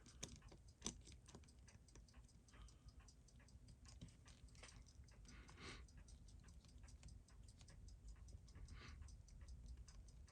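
Faint, quick small clicks and taps of metal tweezers and tools on the parts of a watch movement being disassembled, with a few slightly louder clicks, under a low steady room hum.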